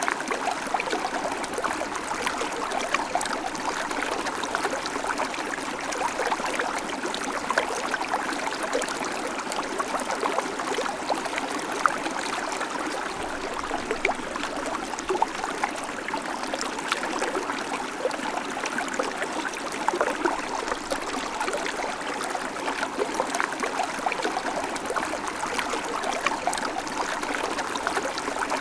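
Small babbling creek: shallow water running over stones, a steady rushing with many small splashes and gurgles.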